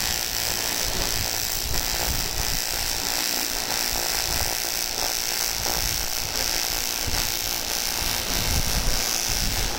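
AC TIG welding arc on aluminium, buzzing and hissing steadily during build-up welding of a shaft, then cutting off at the very end.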